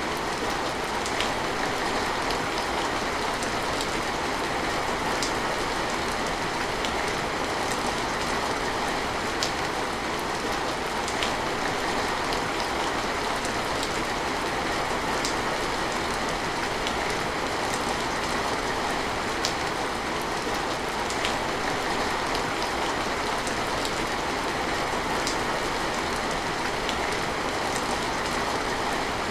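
Steady heavy rain, an even hiss, with an occasional sharp drip-like tick standing out every second or two.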